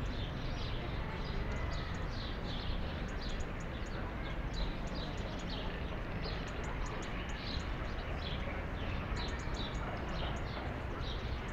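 Small songbirds chirping over and over, quick high chirps that each fall in pitch, several a second, over a steady low background rumble.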